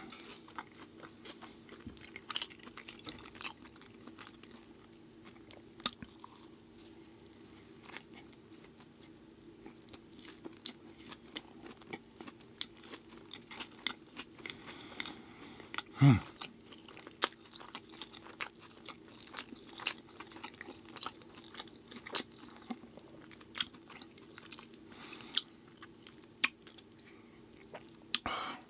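Close-up eating sounds: chewing with many small wet mouth clicks and crunches. About halfway through there is a short voiced "mm" whose pitch falls. A steady low hum runs underneath.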